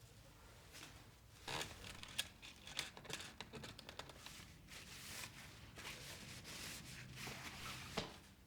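Close-up handling noise: material rustling, with many small sharp clicks, starting about a second and a half in and stopping shortly before the end.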